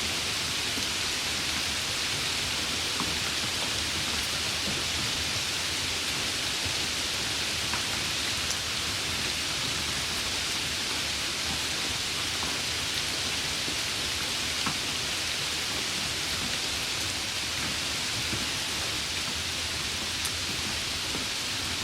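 Steady summer rain: a dense, even hiss of falling rain, with a few single drops ticking now and then.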